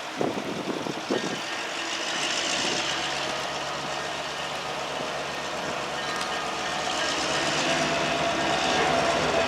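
EMD GP9 diesel-electric locomotive's 16-cylinder two-stroke engine running as it approaches, a steady low drone growing slowly louder, with a few wind thumps on the microphone in the first second or so.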